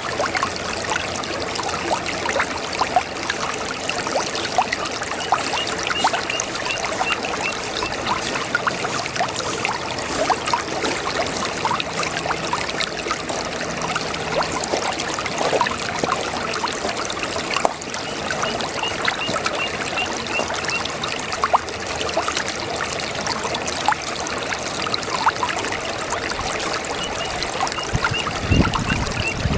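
Small brook babbling and trickling, a steady wash of water full of tiny splashes. A rapid, high chirping comes in three short runs, and a low thump sounds near the end.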